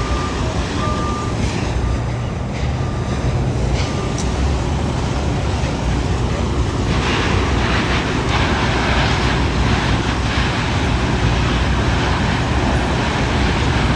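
Steady low rumble of heavy vehicles, with a vehicle's reversing beeper sounding a string of short beeps for the first few seconds. A rushing hiss joins the rumble about seven seconds in.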